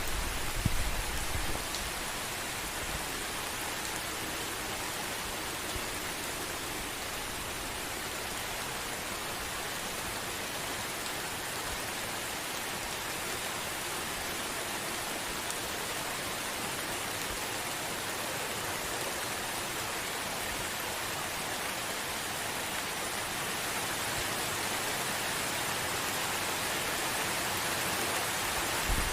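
Gentle rain falling steadily, an even hiss with no thunder. A brief low rumble sits under it in the first second or two.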